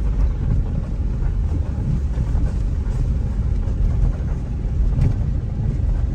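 Car interior road noise while driving: a steady low rumble of engine and tyres. There is a brief knock about five seconds in.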